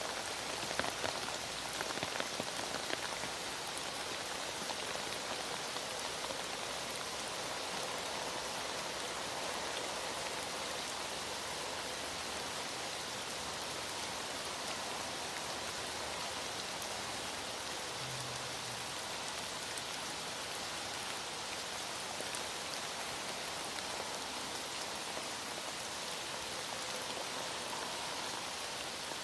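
Heavy rain falling steadily, a dense even hiss of drops on surfaces, with a few sharper drop ticks in the first few seconds.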